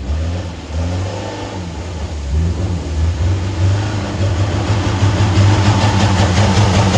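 Off-road 4x4's engine revving, its pitch rising and falling over the first few seconds, then running louder and steadier from about four seconds in.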